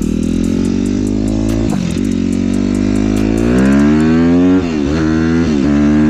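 Suzuki RM-Z250 single-cylinder four-stroke dirt bike engine under way, steady at first, then revving up with a rising pitch a little past halfway. The pitch drops sharply twice near the end as it shifts up through the gears.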